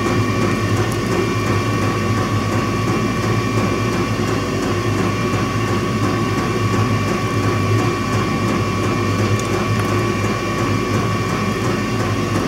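A steady mechanical whir with a constant hum and a few fixed tones, from a machine running continuously.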